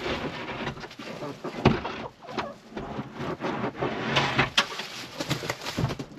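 Domestic chickens clucking softly among a scatter of short clicks and rustles, which grow busier near the end.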